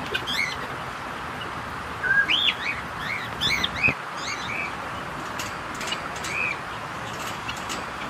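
Small birds chirping: a quick run of short, arched chirps about two to four seconds in and another chirp later, over a steady background hiss.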